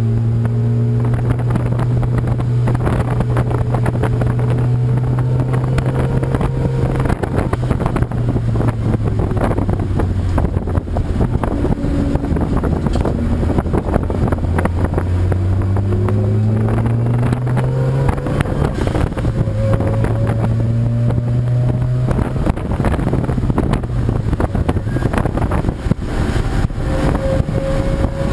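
Racing car engines running on the circuit, their pitch holding, dropping and climbing again with throttle and gear changes, with more than one engine heard at once. Wind buffets the microphone throughout.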